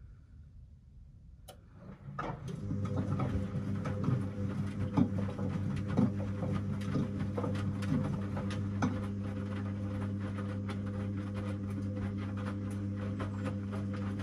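Washing machine running: a steady electric hum with irregular clicking and rattling, starting about two seconds in and cutting off suddenly near the end.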